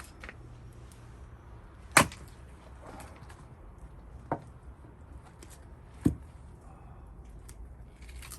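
Gränsfors Bruks axe chopping into cherry-wood rounds while splitting firewood: three sharp chops about two seconds apart, the first and last the loudest.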